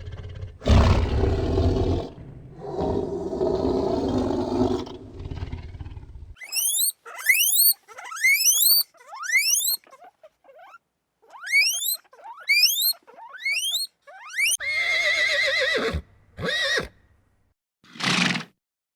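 A sequence of animal calls: a loud, rough roar lasting several seconds, then a run of quick rising chirps, then a horse whinnying near the end.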